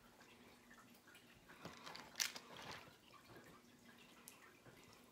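Near silence with a faint steady hum and a few soft clicks and scrapes about two seconds in, from food being portioned into meal-prep containers.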